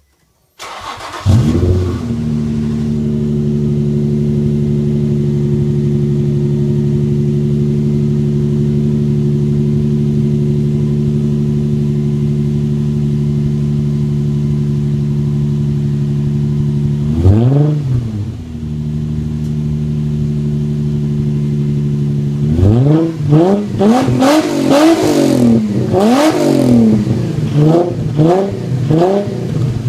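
Infiniti G35's 3.5-litre V6 cranked on a cold start. It catches about half a second in, flares briefly and settles into a steady fast idle. It is revved once a little past halfway, then blipped repeatedly near the end.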